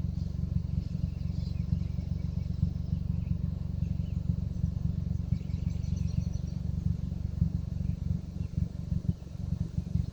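Wind buffeting the microphone: a steady, fluttering low rumble. Faint high chirping from birds or insects comes and goes in the middle.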